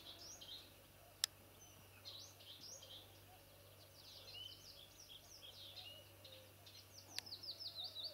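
Small birds singing in quick chirps and trills, getting busier near the end, with a sharp click about a second in and a fainter one near the end.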